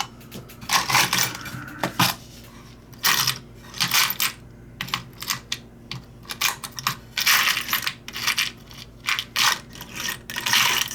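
Small metal tool scraping and clicking against a brass lighter part in irregular short bursts, digging at metal that proves harder than expected.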